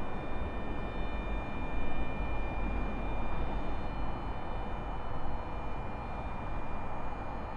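Train station ambience: a steady low rumble and general noise with a thin, steady high-pitched tone running over it.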